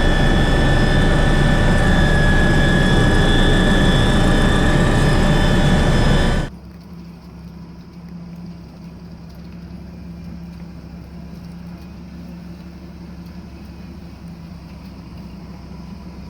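BO 105 twin-engine helicopter running loud and steady, a high turbine whine over the rotor and engine noise. About six seconds in it cuts off abruptly to a much quieter steady low hum.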